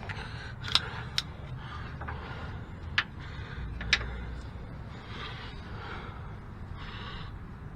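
Four sharp clicks of a hand tool on a tight, seized bolt, with softer scraping from about five seconds in.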